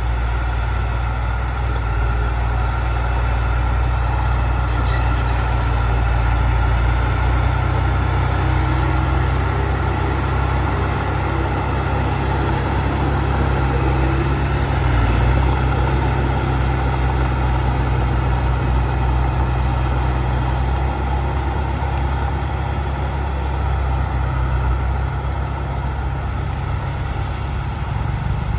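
Heavy diesel engine of earthmoving machinery running steadily, most of its sound low-pitched, easing slightly near the end.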